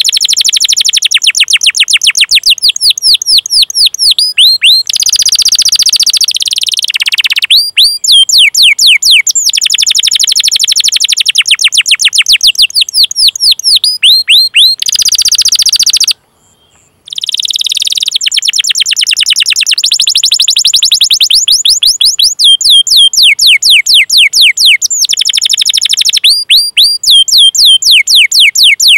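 A domestic canary singing a long, fast series of downward-sweeping chirps, about eight a second, run together with rolled trills. The song breaks off for under a second a little past halfway.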